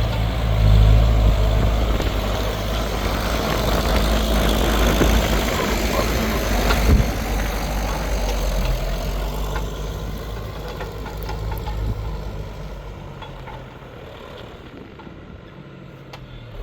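New Holland TL100 tractor's diesel engine running under load as it pulls a plough through hard, trampled ground. It grows fainter over the last few seconds.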